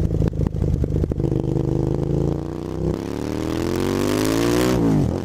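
Motorcycle engine accelerating, its pitch climbing steadily for a couple of seconds and then dropping sharply at a gear change near the end before rising again. A few sharp knocks come in the first second.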